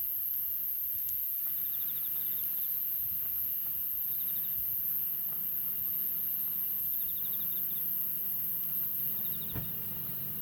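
Insects calling: a steady high-pitched drone, with short trilled chirps repeating every two to three seconds. A single sharp crack sounds near the end.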